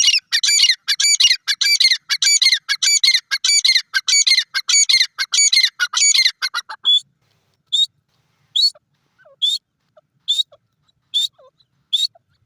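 Francolin (teetar) calling: a fast run of loud, shrill repeated notes, about three a second, for most of the first seven seconds. After that it slows to single sharp notes spaced under a second apart, with faint lower chirps between them.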